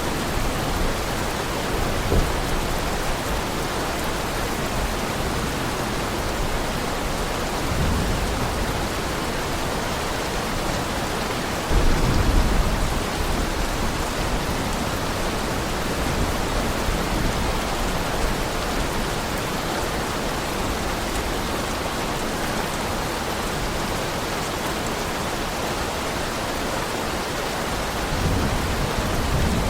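Heavy rain falling steadily, with low rumbles of thunder now and then. The loudest rumble starts suddenly about twelve seconds in and lasts about a second.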